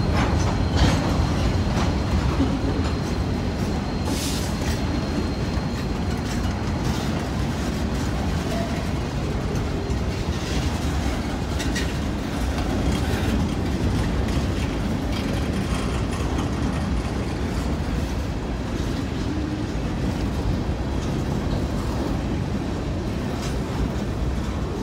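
Freight cars (covered hoppers, boxcars, centerbeam flatcars) rolling steadily past up close: a continuous rumble of steel wheels on rail with irregular clacks over the rail joints, and a thin high tone that fades out in the first few seconds.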